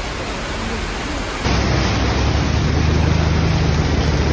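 Heavy rain pouring down on a flooded street. About a second and a half in, it switches to a louder, deeper rush of water and wind as a scooter pushes through the floodwater.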